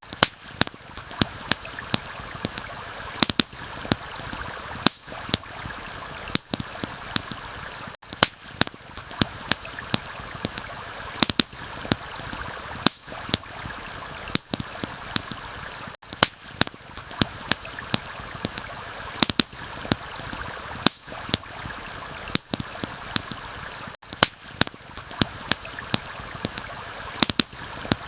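Campfire crackling, with sharp snaps and pops at irregular moments over a steady rush of flowing water. The whole sound drops out briefly about every eight seconds.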